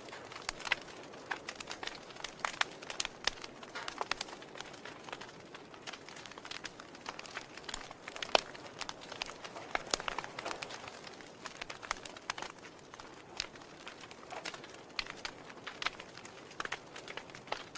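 Wood fire in a fireplace crackling, with irregular sharp pops over a soft steady hiss; one pop about eight seconds in is louder than the rest.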